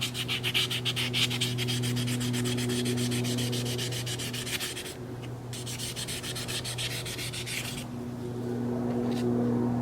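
Black abrasive sanding pad rubbed in quick, even strokes over the clipper's plastic housing: a scratchy rasp that breaks off briefly about five seconds in and stops near the eight-second mark. A steady low hum runs underneath.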